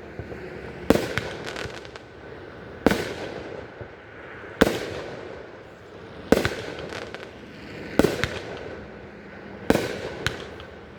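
Fireworks display: six loud booms at a steady pace of about one every 1.7 seconds, each trailing off in a rumbling echo, with smaller crackling reports between some of them.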